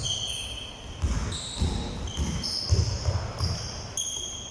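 Basketballs bouncing on a hard floor, several irregular dull thuds, with short high-pitched squeaks from shoes on the court.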